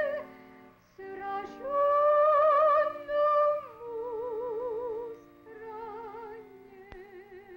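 A woman singing a slow Russian hymn with wide vibrato on long held notes, over sustained accompanying chords. The melody steps down and grows quieter in its second half.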